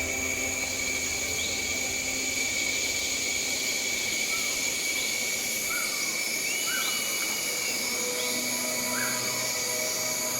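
Outdoor ambience: a steady high buzzing drone, like insects, with a few short bird chirps scattered through it.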